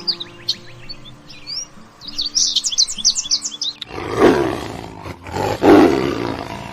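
Small birds chirping in quick rising notes, then a large animal gives two loud roars about a second apart, each lasting about a second, over soft background music.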